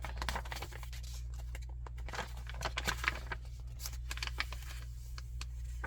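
Paper pages and card of a handmade junk journal being turned and handled: irregular rustling and crinkling with small taps, over a steady low hum.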